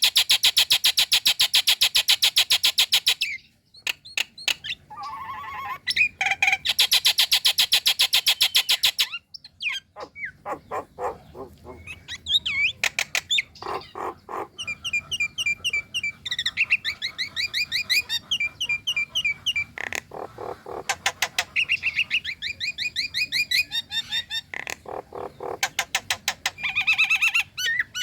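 Female Nias hill myna calling for a male: a fast, harsh rattle for about three seconds, repeated after a short gap, then a varied run of quick trills, rapid repeated notes and sharp clicks.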